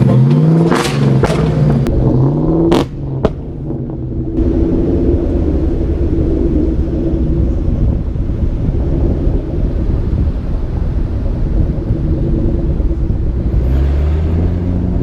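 Car V8 engine accelerating, its pitch rising over the first few seconds. A sharp click comes near three seconds, then the engine settles into a steady run and starts rising in pitch again near the end.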